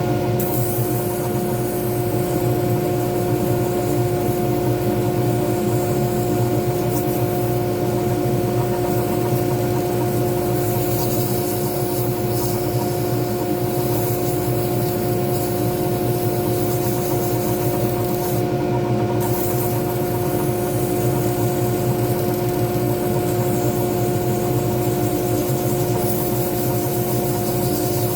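Small pen-turning lathe running steadily with an even hum, and a hiss that comes and goes as the spinning pen blank is worked.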